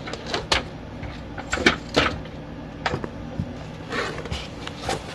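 Irregular knocks and clunks, roughly one a second, from hand work on a car's exhaust pipes and hangers, over a steady low hum.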